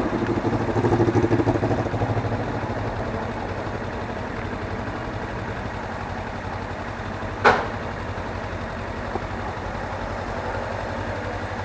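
Suzuki V-Strom 250 motorcycle's parallel-twin engine idling steadily, a little louder in the first two seconds. One sharp knock comes about seven and a half seconds in.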